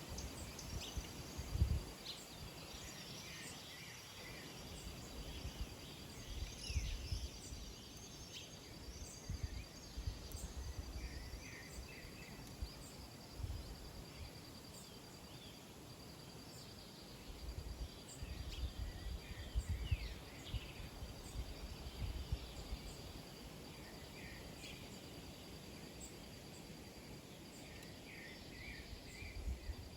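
Small birds chirping and twittering, many short calls scattered throughout, over a steady high thin tone and irregular low rumbling.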